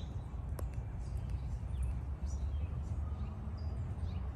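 Small birds chirping in short, high calls over a steady low rumble, with one sharp click under a second in.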